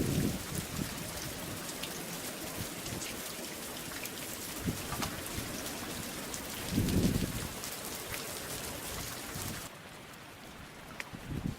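Heavy nor'easter rain hissing and pattering, with fine drop ticks and a low rumble swelling about seven seconds in. Near the end the rain's hiss drops away suddenly.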